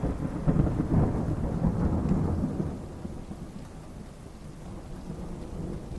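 Thunder rumbling over steady rain. The rumble is loudest in the first two seconds or so, then dies away, leaving the rain.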